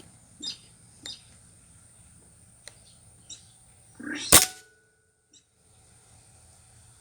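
A few short, high bird-like calls, then one loud, sharp burst about four seconds in.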